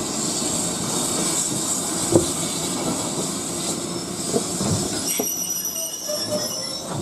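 Railway carriages rolling on the track with a steady rumble and a few knocks of the wheels over rail joints; from about two-thirds of the way in, a high wheel squeal of several thin steady tones.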